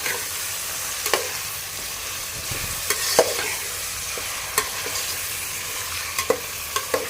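Raw chicken pieces sizzling as they fry in hot oil with browned onions, stirred with a spoon that knocks against the pot several times.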